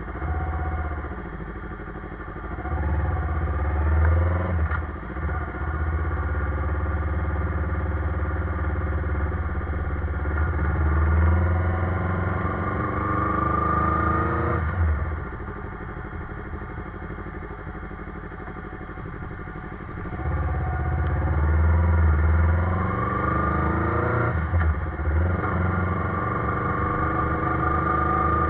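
Yamaha sport motorcycle's engine under way at low speed. Its pitch rises as it accelerates, then drops abruptly at a throttle-off or gear change about halfway through and again a few seconds before the end, then climbs once more.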